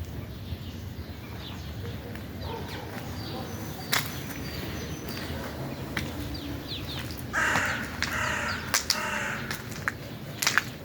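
Three loud, harsh bird calls in quick succession about seven seconds in, over faint chirping of small birds and a low steady rumble, with a sharp click about four seconds in.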